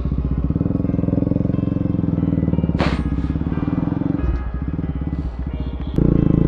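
Bajaj Pulsar NS200's single-cylinder engine running at steady low revs through an aftermarket Akrapovic exhaust, with a step up in loudness about six seconds in.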